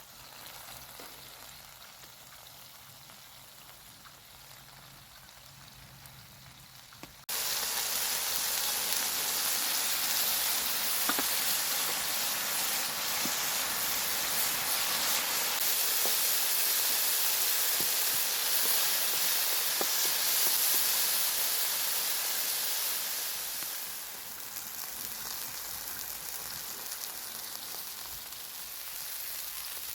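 Food frying and sizzling. A quieter hiss at first gives way abruptly, about seven seconds in, to much louder, steady sizzling, which eases a little near the end.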